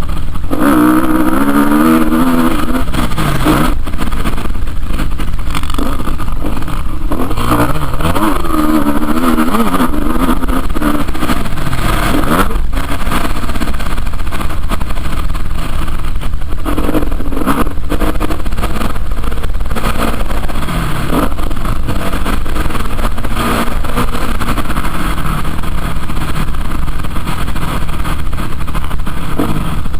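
Motocross bike engine, loud, revving up and falling back over and over as it is ridden, with the pitch rising and dropping through the throttle and gear changes.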